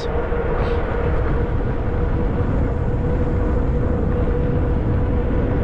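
Wind rushing over the microphone of an electric fat-tire bike riding at speed, with a steady whine held at one pitch underneath.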